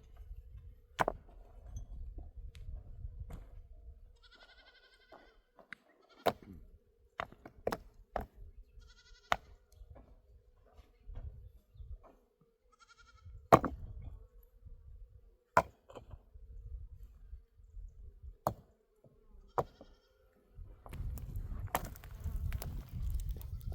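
Livestock bleating three times in short calls, with sharp knocks scattered in between.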